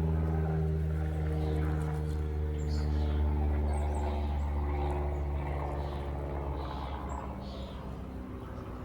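Steady low motor hum, with birds chirping now and then. The hum eases off slightly near the end.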